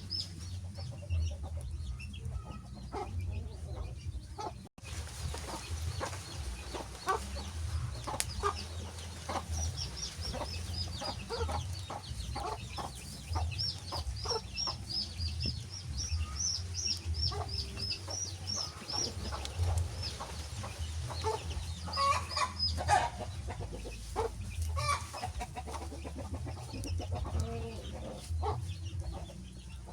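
Chickens clucking, with a long run of quick, high chirps from about ten to nineteen seconds in over a steady low rumble; the sound cuts out for an instant about five seconds in.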